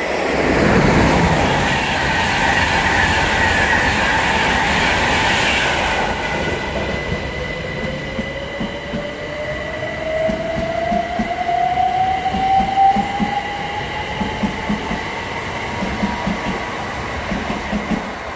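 Class 91 electric locomotive-hauled express passing through at speed. A loud rush of wheel and air noise comes first, then a tone rising steadily in pitch and a run of rhythmic wheel clicks as the coaches go by.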